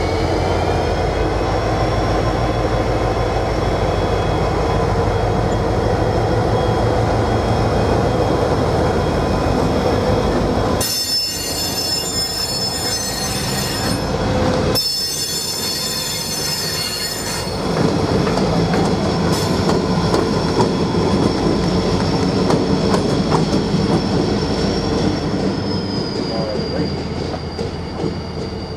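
Norfolk Southern train rolling past, its steel wheels squealing on the rails in steady high tones. For several seconds around the middle the squeal turns shriller, breaking off briefly before it resumes.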